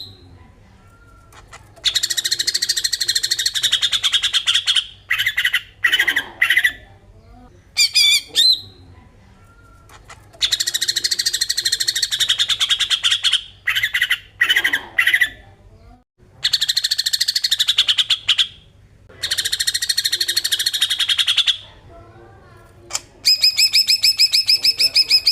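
Cucak ijo (green leafbird) giving its harsh, rasping 'besetan' call, the agitated scolding call used to provoke other birds. It comes in loud buzzy phrases of two to three seconds each, separated by short pauses with softer chirps. Near the end it gives a fast stuttering run of repeated notes.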